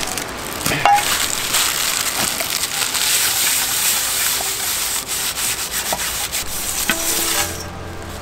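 A cooking pan being scrubbed clean, a dense rasping scrub with short scratchy strokes that stops near the end.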